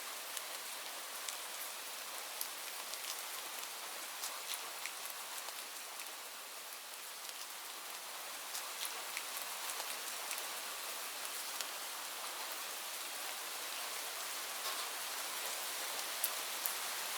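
Steady rain, a constant hiss with many separate drops ticking sharply on a surface close by.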